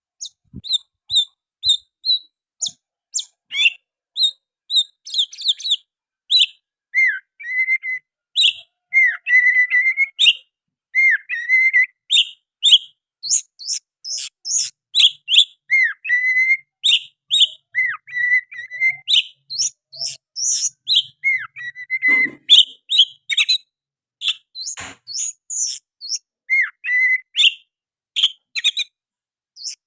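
Oriental magpie-robin singing a long, unbroken song of varied clear whistled phrases, repeated notes and rising hooks, with mimicked sooty-headed bulbul calls worked into it.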